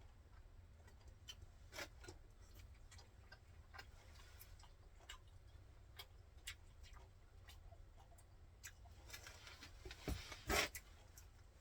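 Faint, irregular light clicks and taps, with a louder knock about ten and a half seconds in, over a low steady hum.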